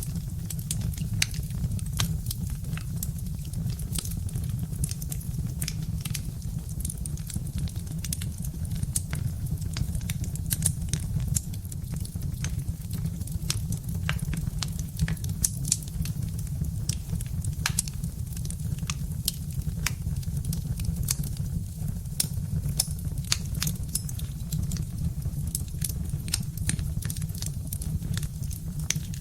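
Birch-log wood fire crackling: frequent, irregular sharp snaps and pops over a steady low rumble.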